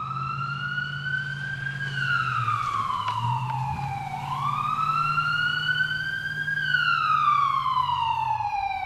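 Wailing siren, its pitch slowly rising and falling twice, over a steady low hum.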